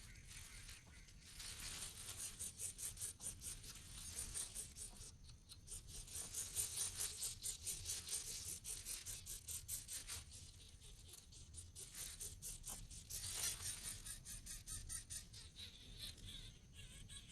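Nestling birds begging for food: rapid, high, raspy chirping in bouts, with short lulls between them.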